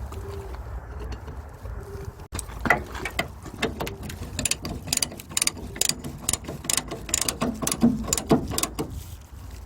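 Rapid, irregular metallic clicking and knocking over a low, steady rumble.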